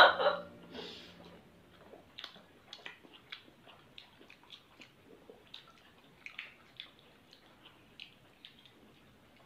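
Wet mouth clicks and lip smacks of people chewing chicken momos, short soft smacks coming irregularly about one or two a second. A brief loud sound at the very start is the loudest thing.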